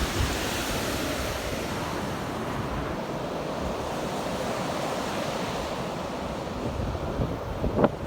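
Surf washing onto the beach in a steady wash, mixed with wind blowing across the microphone, which buffets it in a few short gusts near the end.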